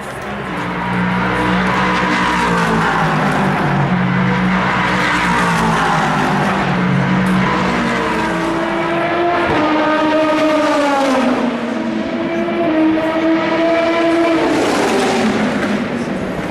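Endurance race cars passing at speed one after another. Their engine notes rise as each approaches and fall away as it passes.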